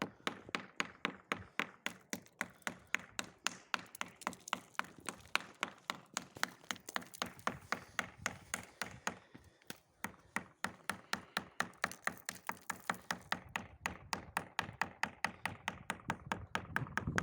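A screwdriver tapping rapidly and evenly at the ice on a frozen car door, about four or five sharp taps a second, with a brief pause about ten seconds in.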